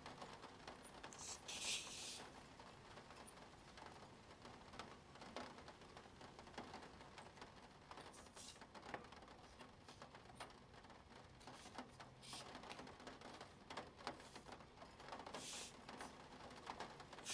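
Faint, irregular clicks and taps of plastic Spirograph pieces, with a few short scratchy rustles, the first about a second and a half in and another near the end.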